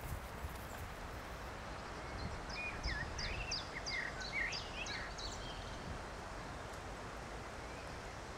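Woodland outdoor ambience, a steady hiss, with a songbird singing a quick run of short, high repeated notes and swooping chirps from about two to five and a half seconds in.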